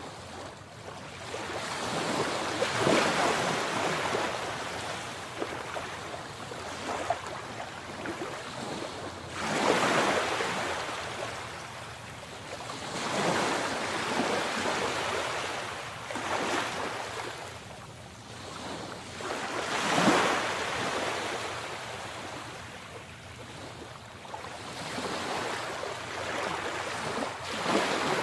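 Sea waves breaking and washing up a shore, the surf swelling and ebbing about six times, every three to six seconds.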